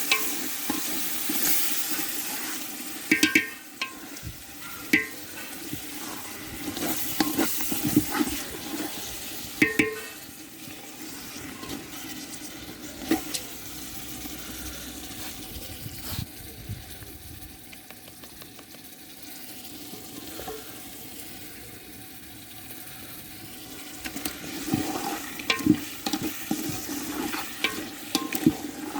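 Chicken curry sizzling in a pan while it is stirred, with a metal spoon knocking against the pan every few seconds. The sizzle is loudest at the start and then dies down.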